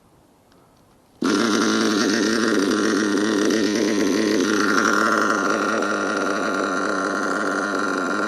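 Nitro two-stroke glow engine of an RC monster truck idling with a wavering, burbling note, cold and warming up with the glow igniter still on. It comes in suddenly about a second in after a near-silent gap, and a steady higher whine joins it about halfway through.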